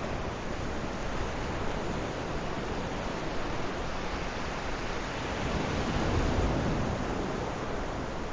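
Sea waves washing onto the shore: a steady rushing that swells to its loudest about six seconds in, then eases.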